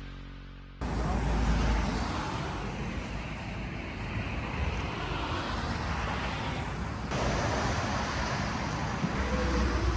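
Steady road traffic noise, vehicles passing on a busy main road with a low rumble, changing a little about seven seconds in.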